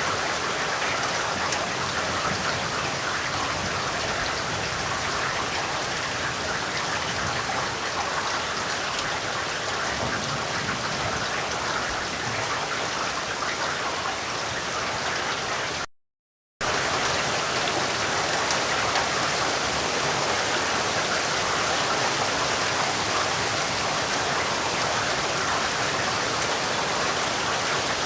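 Steady rain falling, an even hiss of drops with no thunder. It cuts out completely for about half a second a little past halfway, then carries on unchanged.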